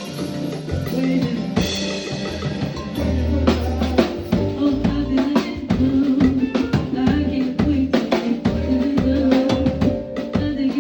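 Live band playing an instrumental passage: drum kit with snare and bass drum hits in a steady rhythm under held pitched notes, with a heavy bass line coming in about three seconds in.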